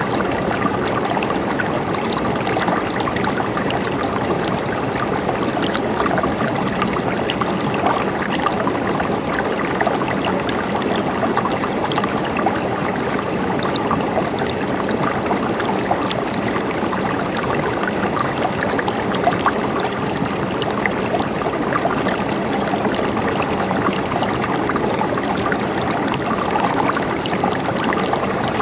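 Stream of running water flowing steadily, an even rush with many small trickles and splashes through it.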